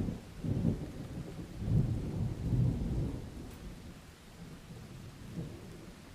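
Thunder rolling over steady rain: a sharp crack right at the start, then deep rumbles that swell over the first three seconds and die away, with one last small rumble near the end.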